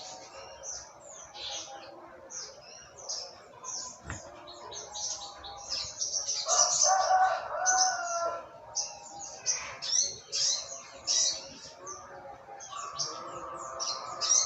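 A sogok ontong songbird singing a fast, unbroken stream of high chirps and trills that grows louder about six seconds in. A single sharp click comes about four seconds in.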